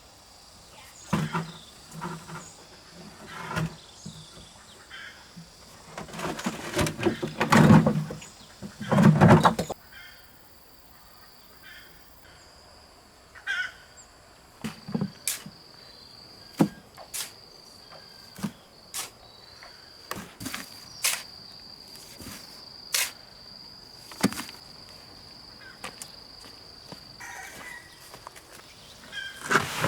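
Irregular knocks and taps of hand building work on a chicken coop, with a louder flurry of knocking about six to ten seconds in. A steady high insect drone runs through the middle.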